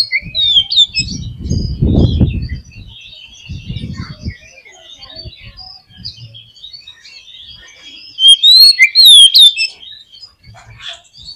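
Oriental magpie-robin singing a fast, varied run of chirps and whistles. A loud burst of sharp rising and falling whistles comes about eight seconds in. Low rumbling thumps run under the first few seconds.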